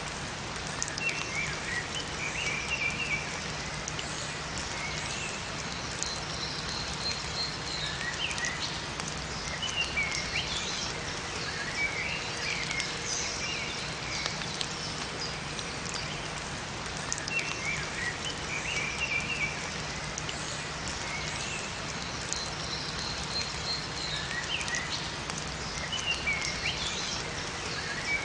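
Steady rain falling, with small birds chirping short high phrases every few seconds.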